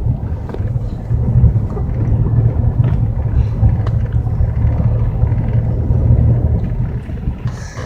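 Truck climbing a snow-covered hill, heard from inside the cab: a steady low rumble of engine and tyres.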